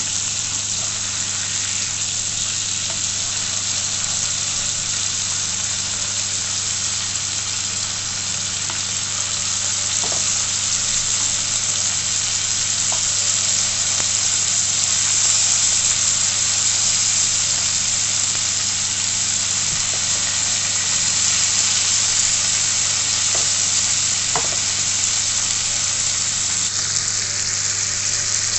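Marinated mutton steaks sizzling steadily in melted butter in a frying pan, over a low steady hum, with a few faint clicks.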